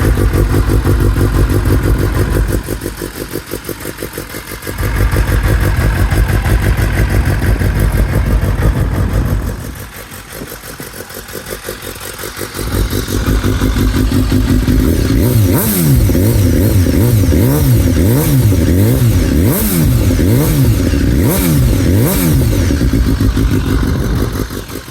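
BMW S1000R's inline-four engine running through an Akrapovic exhaust, idling at first, then revved in a quick series of throttle blips, about one a second, through the second half.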